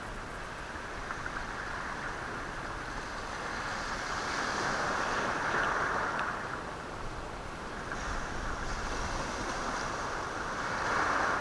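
Sea waves washing over a rocky shore and rolling the stones, as an even rushing that swells twice: about five seconds in and again near the end.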